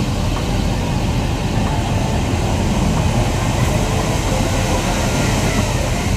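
Strong wind buffeting the microphone: a steady, loud low rumble, with the roar of falling water from Niagara Falls mixed in.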